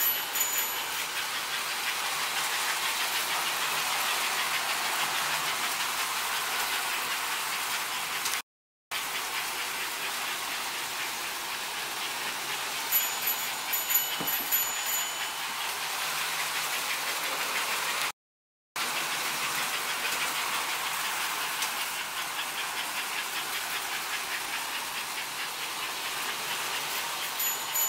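American Flyer S gauge model trains running on the layout: a steady whirring clatter of wheels and motors on the track that swells and fades as a train comes past. Short high ringing tones sound about halfway through and again near the end, and the sound drops out to dead silence twice.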